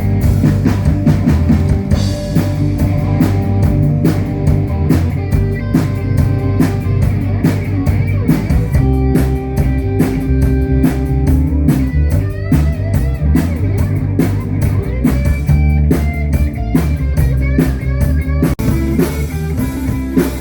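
Live rock band playing an instrumental passage between sung verses: drum kit keeping a steady beat under bass and guitar, with the guitar playing held and bending melodic lines.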